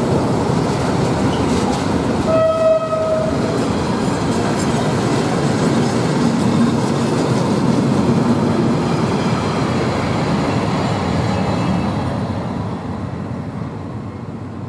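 Freight train tank wagons rolling past on the rails at close range, the noise fading away as the end of the train goes by near the end. A short steady tone sounds for about a second, about two seconds in.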